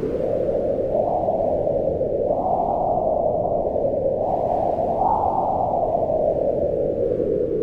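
Wind blowing steadily as a low rushing noise that swells and eases in slow gusts, surging about two and a half and five seconds in.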